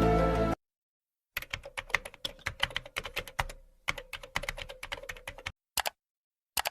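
Typing on a computer keyboard: a run of quick, irregular key clicks with a short pause midway, then two single clicks near the end. A snatch of music stops abruptly about half a second in, before the typing starts.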